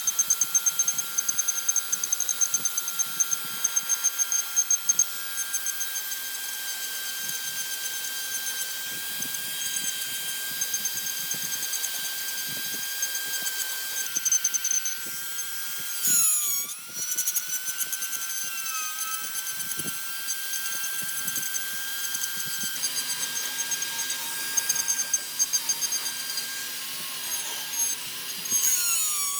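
A high-speed electric power tool whining steadily as it works the wood, its pitch dipping and recovering a few times as it is bogged down under load.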